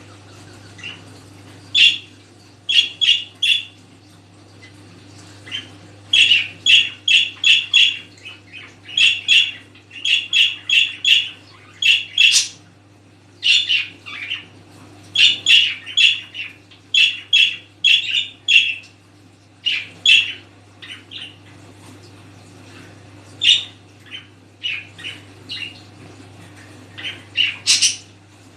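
Pet birds calling in quick runs of short, sharp squawks, three to five at a time, with gaps between the runs, over a steady low hum.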